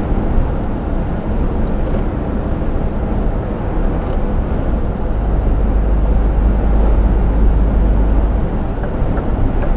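Iveco truck driving at speed, heard from the cab: a steady low engine rumble with road and wind noise.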